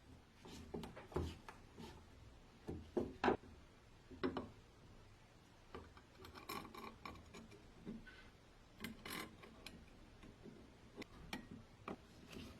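Scattered light knocks and clicks with a few brief rubbing or scraping sounds, irregular and unhurried, like small hard parts being handled and set down.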